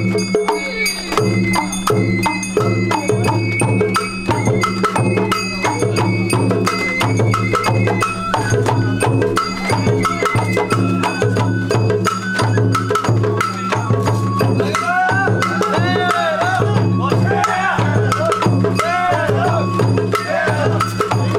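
Sawara hayashi festival music played from a float: drums struck in a fast, steady rhythm under a bamboo flute melody, with the flute line bending up and down more in the second half.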